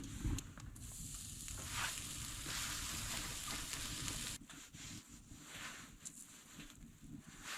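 Sizzling hiss over a campfire that cuts off suddenly about four seconds in, followed by fainter scattered crackles.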